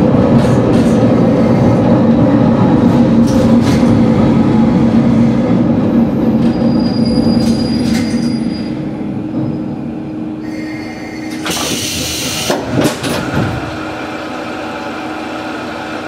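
Diesel railcar slowing to a stop at a station platform: the loud rumble of wheels and engine fades, with a thin high brake squeal about seven to eight seconds in. A loud hiss of air follows about eleven to thirteen seconds in, then the engine idles steadily.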